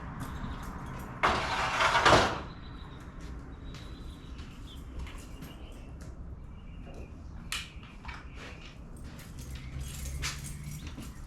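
Work noises: a harsh scrape lasting about a second, then scattered light clicks and knocks.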